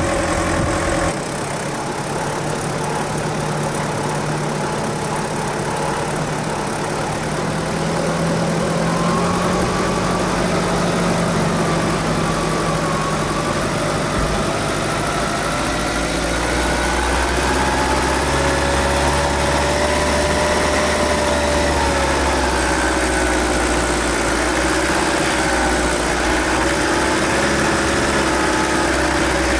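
Suzuki Grand Vitara's 2.0 turbodiesel engine running at low revs while the 4x4 crawls over a dirt track, heard from the bonnet. The engine note rises and falls slowly over a low rumble, and the sound changes abruptly about a second in and again about halfway through.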